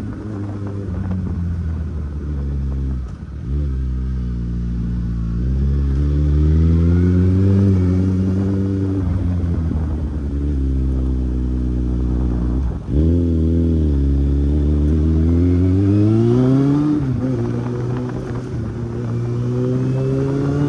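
Kawasaki Z800 inline-four motorcycle engine under way, its revs rising and falling, with two short breaks in the engine note about 3 and 13 seconds in, as at gear changes.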